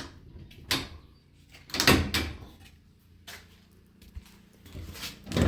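Garage door opener's emergency release and door hardware being worked by hand: a few separate sharp clicks and clunks, the loudest about two seconds in. A louder continuous noise sets in at the very end.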